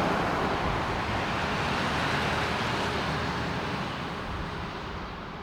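Jet aircraft engine noise at an airport: a steady, even rush that slowly fades away.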